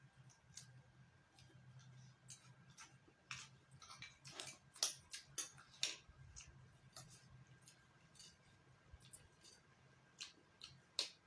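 Eating sounds during a meal: scattered light clicks and taps of cutlery on dishes, with chewing, a cluster of sharper clinks in the middle.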